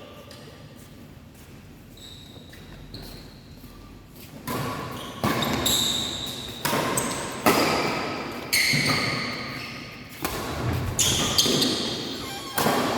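Badminton rally: rackets striking the shuttlecock in sharp hits about once a second, echoing in a large hall. The hits begin after a quieter lull of about four seconds.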